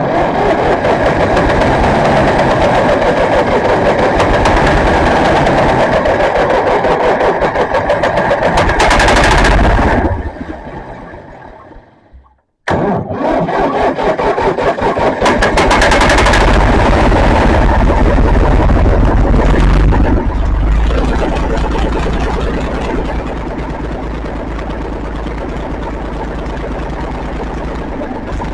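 Old International 2400 tractor's engine, cranked on starting fluid, fires and runs loudly for about ten seconds, then dies away. It is cranked again about twelve seconds in and catches at once. It runs loudly, then settles to a steadier, quieter idle for the last several seconds.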